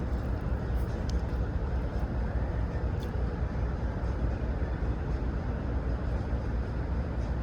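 Steady low vehicle rumble with even outdoor background noise, the kind of engine drone heard around a truck stop.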